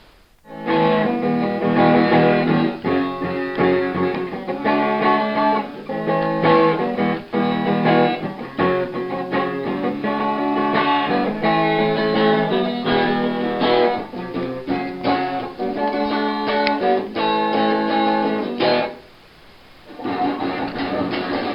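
Guitar music: strummed chords that stop for about a second near the end and then start again.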